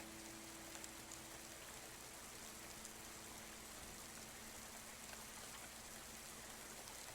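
Faint, steady rain heard from inside a house, an even patter with a few soft drop ticks.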